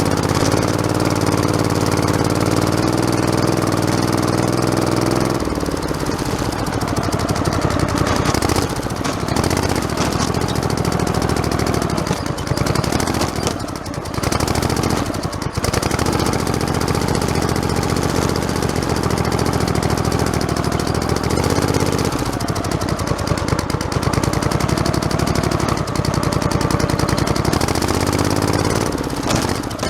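Modified lawn tractor's small engine running as the tractor drives along, its pitch dipping and recovering a few times as the load or throttle changes.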